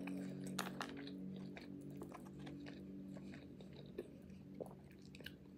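A person chewing a mouthful of food close to the microphone, with soft wet mouth clicks scattered through, over a faint steady low hum.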